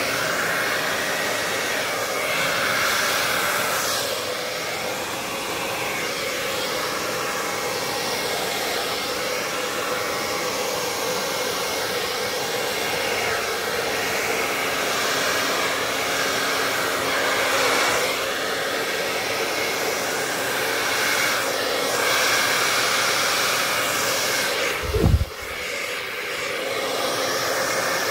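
Hair dryer running steadily, blowing fluid acrylic paint across a canvas in a Dutch pour, its sound rising and falling slightly as it is moved. A single short low thud about 25 seconds in.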